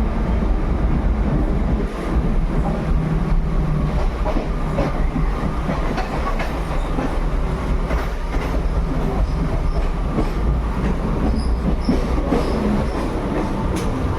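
Train running along the track: a steady, loud rumble of wheels on the rails, with scattered clicks and faint high squeals from the wheels.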